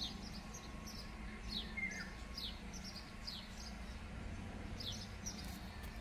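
Small songbirds chirping: a quick run of short, high chirps, each sliding down in pitch, about two a second.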